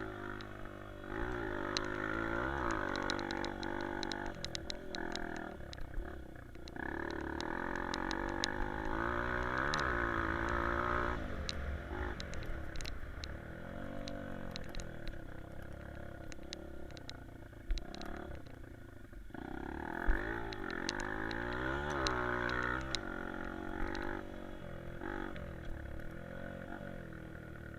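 Honda CRF150F's single-cylinder four-stroke engine revving up and dropping back again and again as it is ridden, its pitch climbing and falling with each throttle change. Wind buffets the helmet-mounted microphone underneath.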